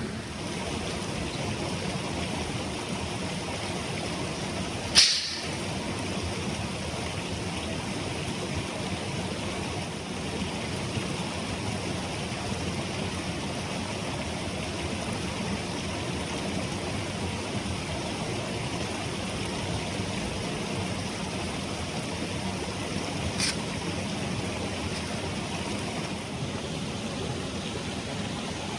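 Clear mountain stream rushing steadily over rocks. A sharp loud snap about five seconds in and a fainter one near the end.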